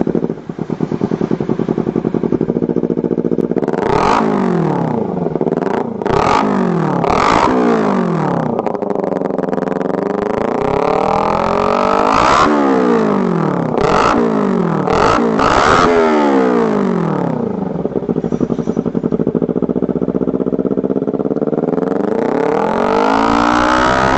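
Motorcycle engine running through an aftermarket Jardine GP-style racing exhaust, idling and then revved up and down several times, with sharp cracks as the throttle blips around four to seven seconds in and again in the middle. A long rise and fall in revs comes before the middle, and another rev comes near the end.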